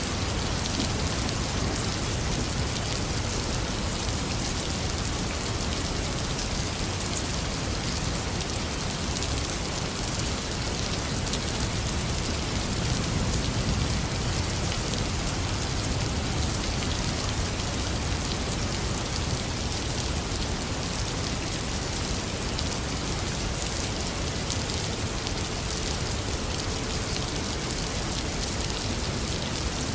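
Heavy rain falling steadily, a dense even hiss of drops, with a low rumble that swells a little around the middle.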